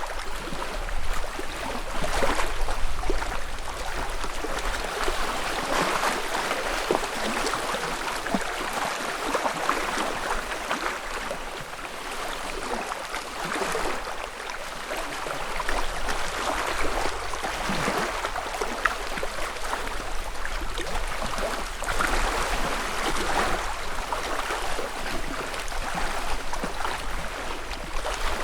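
Small ripples from a calm lake lapping and splashing at the shore, in soft swells every few seconds.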